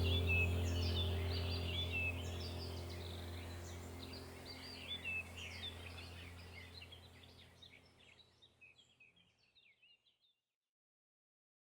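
Birds chirping and singing over a steady low hum, the whole sound fading out gradually until it is gone about nine seconds in.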